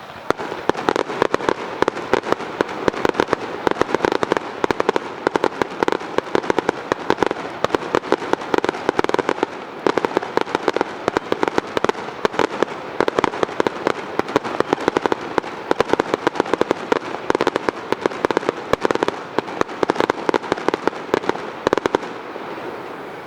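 Fireworks display: a dense, unbroken barrage of rapid bangs and crackles. It starts suddenly and cuts off near the end, leaving a fading echo.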